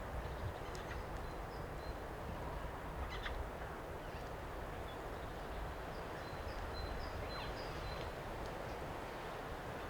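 Steady wind rumbling on the microphone, with faint bird calls above it: a brief sharp call about three seconds in, and a run of short high whistled notes between about six and eight seconds in.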